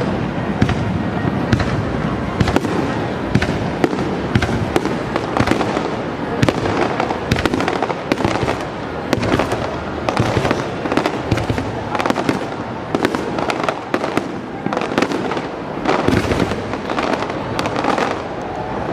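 Fireworks display going off in a dense, continuous barrage of rapid, overlapping bangs.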